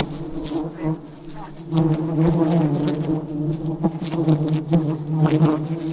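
A dense swarm of wild honeybees buzzing loudly around the hive in a steady, wavering drone, with scattered small clicks and knocks.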